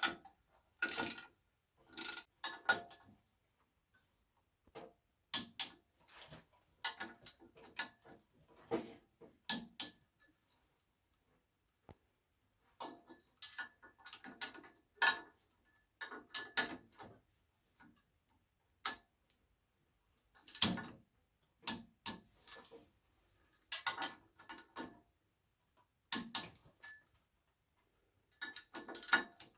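Socket ratchet or torque wrench clicking in short bursts with pauses between, as the clutch pressure plate bolts of an air-cooled VW Beetle engine are tightened to 18 lb-ft.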